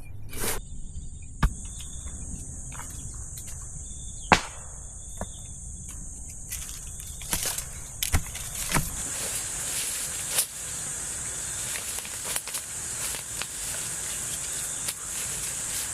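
Forest insects buzzing in a steady high drone, with scattered sharp clicks and snaps. About nine seconds in, a broader hiss comes up as a low rumble drops away.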